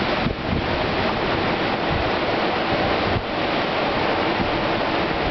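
Hurricane winds blowing hard through trees, a loud, steady, dense rush like a jet overhead, with gusts buffeting the microphone. The rush eases briefly twice, about a third of a second and about three seconds in.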